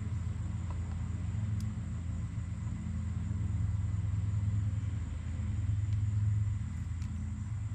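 A steady low motor hum that swells slightly about four to six seconds in.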